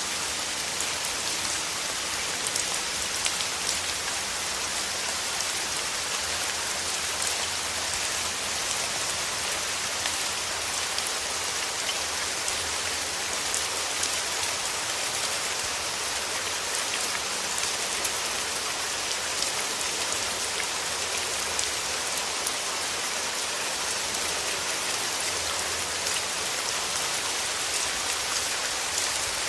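Steady rain falling on rose petals: an even, constant hiss with many small drop ticks scattered through it.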